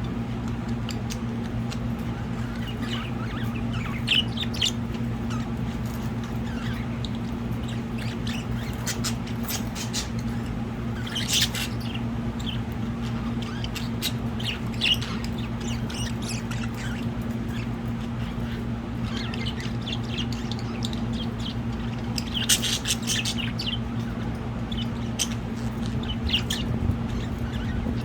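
Budgerigars chirping and squawking in short calls, on and off, with a steady low hum underneath.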